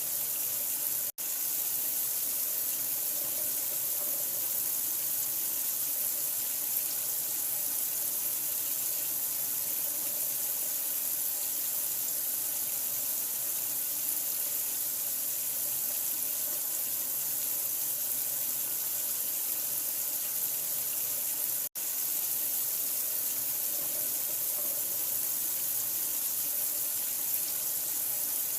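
Water running in a steady, even hiss, used as sleep-inducing noise for a newborn. It cuts out for an instant twice, about a second in and again about two-thirds of the way through.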